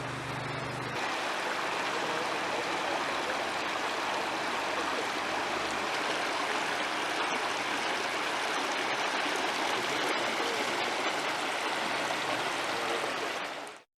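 Floodwater rushing, a steady noise of fast-flowing water that gets a little louder about a second in, when a low hum drops away.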